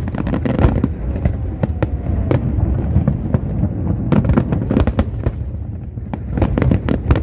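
Aerial fireworks display: many sharp bangs in quick, irregular succession over a continuous low rumble.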